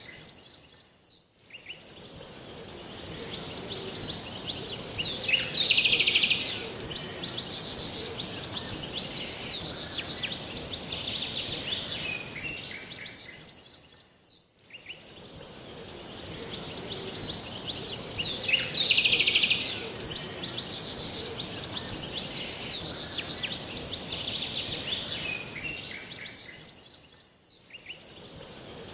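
Birds chirping and singing over a steady high hiss. The loudest moment is a dense burst of chirps, once about six seconds in and again about nineteen seconds in. The same stretch of about thirteen seconds repeats, fading out and back in three times.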